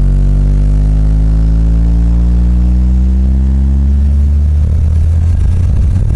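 Old-school Ground Zero car subwoofer playing heavy electronic bass music very loud. A bass tone slides steadily up in pitch over about four seconds, then breaks into dense, pounding low bass.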